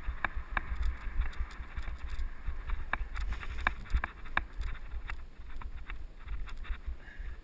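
Mountain bike rattling and clicking over a rough dirt trail, with irregular sharp knocks several times a second, under a steady low rumble of wind buffeting a helmet-mounted action camera.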